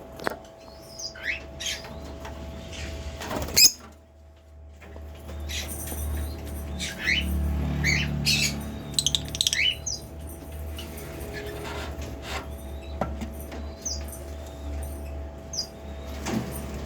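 Pet lovebirds giving short, sharp chirps and squawks in irregular bursts, busiest in the middle, over a steady low hum. One loud sharp knock comes about three and a half seconds in.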